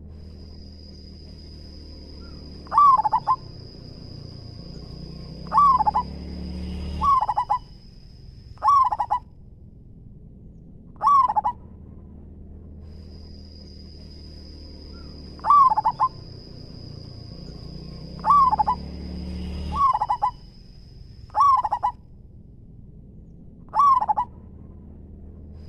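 Zebra dove cooing in short, loud calls repeated every two to three seconds. A thin, steady high-pitched whine runs underneath for stretches and cuts out twice.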